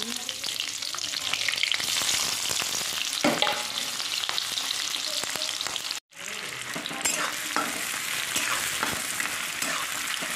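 Bay leaf and dried red chilli sizzling in hot oil in a kadhai. After a brief break about six seconds in, sliced onions fry in the oil while a spatula stirs them.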